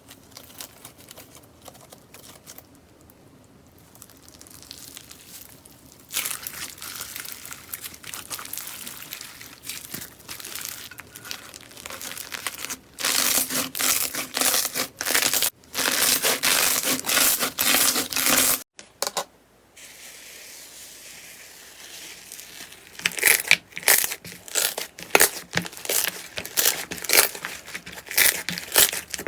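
Slime being squeezed and handled by hand, a stream of small crackling pops and clicks in several short clips with brief breaks between them; it gets louder about six seconds in, and the clicks turn sharper and more separate in the last several seconds.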